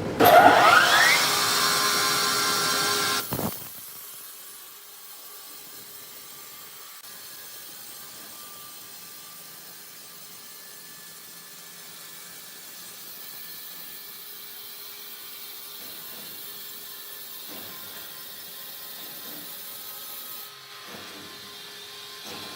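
Sawmill machinery: a loud sawing burst with a rising whine at the start, cutting off after about three and a half seconds, then a quieter steady machine hum.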